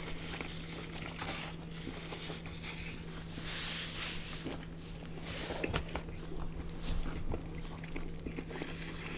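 Close-miked chewing and biting of a McDonald's Chicken Big Mac, with soft wet mouth sounds and small clicks and a couple of brief louder smacks, over a steady low hum.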